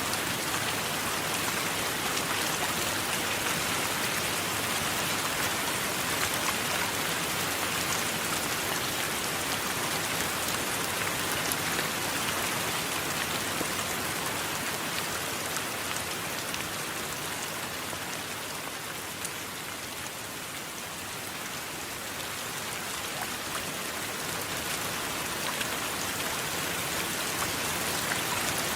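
Steady heavy rain falling on surfaces, a dense hiss with faint scattered drop ticks, easing slightly for a few seconds past the middle before building back.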